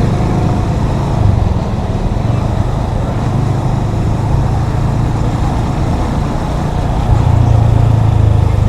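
Yamaha FZ25's single-cylinder engine running steadily while riding. About seven seconds in it gets louder as the throttle opens.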